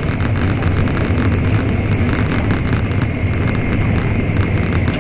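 Steady running noise of an N700 series Shinkansen at speed, heard inside the passenger cabin: a loud, even rumble strongest in the low end, with a faint fine rapid clatter over it.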